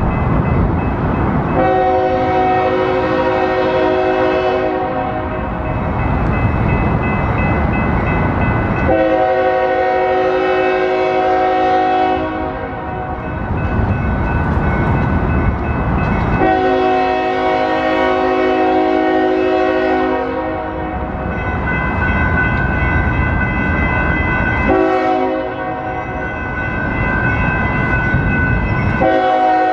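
Union Pacific freight locomotive's multi-chime air horn blowing a series of long blasts for the street crossings. The train's low rumble is heard between the blasts.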